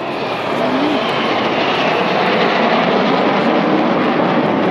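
Red Arrows BAE Hawk T1 jet aircraft flying in a display, their Adour turbofan engines making a steady jet roar. The roar grows a little louder over the first couple of seconds and then holds.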